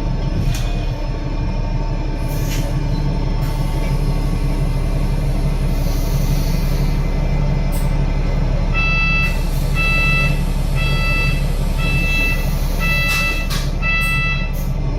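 Inside a double-deck bus under way: the Cummins ISL8.9 diesel and Voith DIWA864.5 automatic gearbox running steadily. From about nine seconds in, an electronic beep sounds six times, roughly once a second.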